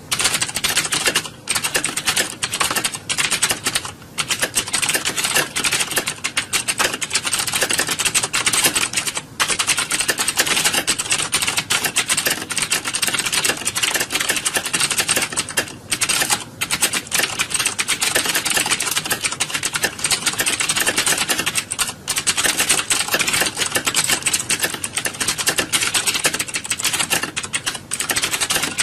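Many computer keyboards typed on at once, a dense and continuous clatter of key clicks like a hall full of typists.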